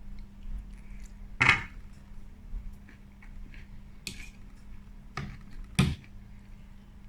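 Cutlery knocking against a dish four times while eating, sharp and separate strikes about a second or two apart, with faint small ticks between them.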